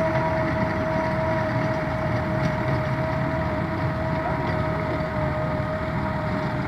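Massey Ferguson 385 tractor running steadily under load while working a rotavator, with a constant high whine over the engine noise.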